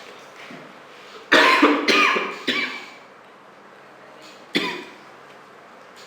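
A person coughing: a fit of three or four coughs about a second in, then one more cough near the end.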